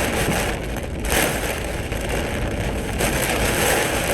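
Torrential rain pelting a car's roof and windscreen, heard from inside the car: a steady dense hiss with a low rumble underneath.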